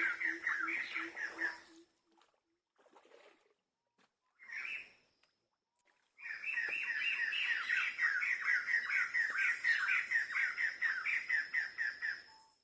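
A bird calling in a fast series of short chirps, about four a second, breaking off after a couple of seconds and starting again about six seconds in. A faint, steady high whine runs under the later stretch.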